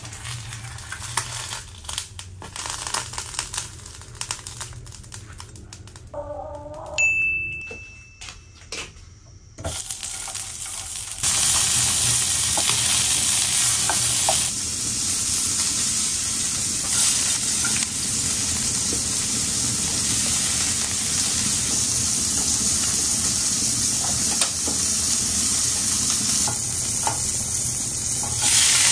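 Food frying in oil in a nonstick pan. A quieter sizzle with light spatula taps and scrapes comes first, then about a third of the way in a louder, steady sizzle as a sausage fries.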